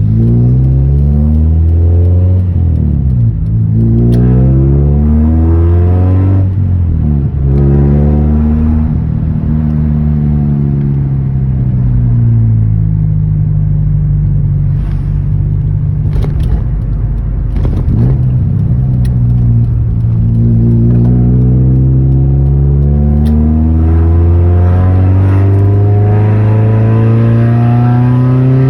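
Exhaust of a Nissan S15 Silvia's naturally aspirated SR20DE four-cylinder, fitted with an APEXi header, a straight pipe in place of the catalytic converter and a 5Zigen Super Lap muffler, under driving. The engine revs up through the gears, its pitch dropping at each shift, about 3 s and 6.5 s in. It then holds a steady note for several seconds and pulls up again in one long rise before another shift at the very end.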